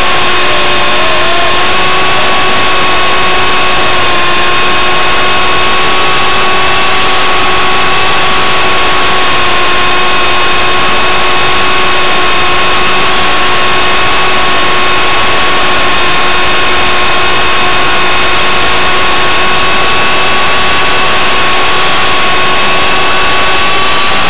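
WLtoys V913 RC helicopter's electric motor and rotor running in flight, a loud steady whine with several fixed tones over rushing air noise, heard from a camera carried on board.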